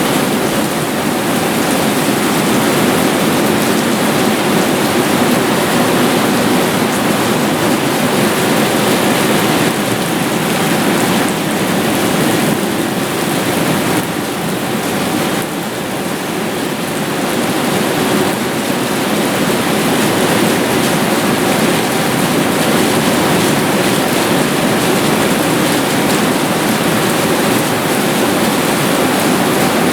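Heavy downpour during a thunderstorm: a dense, steady hiss of rain, dipping briefly about halfway through and then building again.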